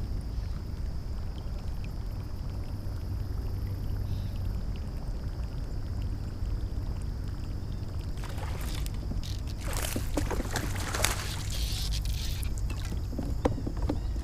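Steady wind rumble on the microphone. About eight seconds in, loud splashing and slapping of water takes over: a bass blowing up on a topwater Whopper Plopper lure and thrashing at the surface as it is fought in.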